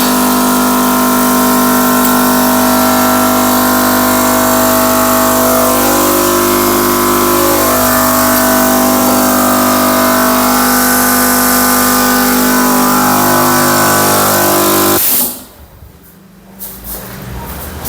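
Workshop air compressor running steadily while building up tank pressure, then cutting off suddenly about fifteen seconds in, followed by a few light clicks.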